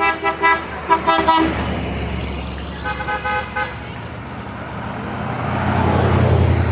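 Car horn honking in quick runs of short toots, several within the first second and a half and again about three seconds in. A car engine then grows louder toward the end.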